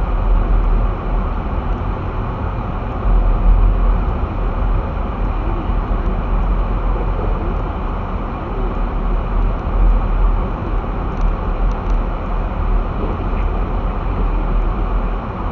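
Steady, low road and engine rumble of a vehicle driving, heard from inside its cabin.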